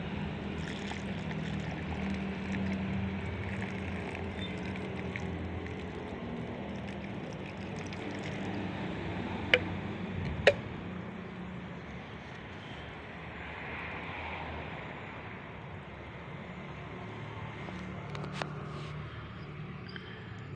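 A steady low engine hum, with two sharp clicks about halfway through and a fainter click near the end.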